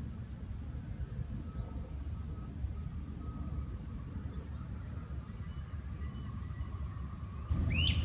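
A small bird calling: faint, short, high chips every second or so over a steady low rumble. Near the end comes one louder tweet that sweeps up and falls away, together with a brief surge of low rumble.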